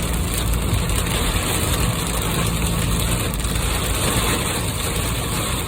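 Steady noise inside a car driving through a heavy downpour: rain on the body and windshield, tyres on the wet road, and the engine running underneath.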